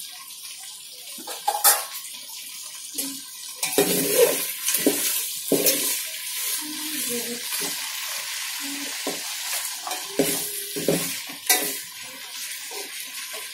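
Chicken pieces sizzling in ghee in an aluminium pot while a metal spoon stirs them, scraping and clattering against the pot. The sizzle grows louder about four seconds in.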